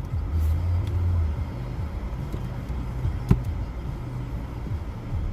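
Car moving slowly, a steady low engine and road rumble, with one sharp click about three seconds in.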